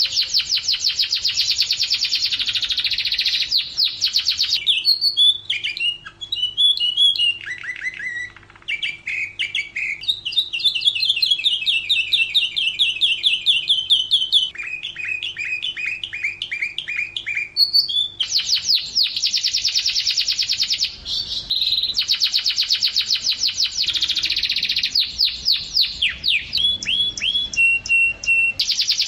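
Domestic canary singing a continuous song: long, very fast trills alternating with slower rolling phrases of repeated notes, the phrase changing every few seconds.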